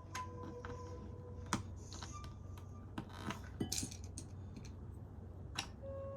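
Plastic LEGO pieces clicking and clattering as they are handled and snapped together, in scattered sharp clicks, the loudest about a second and a half in and between three and four seconds in.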